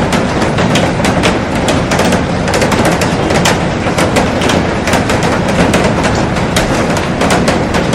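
Heavy rain falling on a glass roof and garden: a dense, steady hiss with many sharp drop impacts on the glass.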